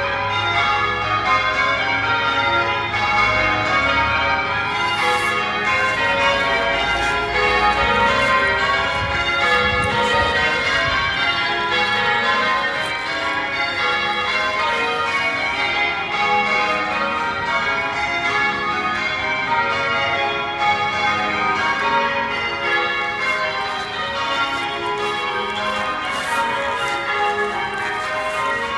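Chelsea Old Church's bells ringing continuously, many bells striking in overlapping succession.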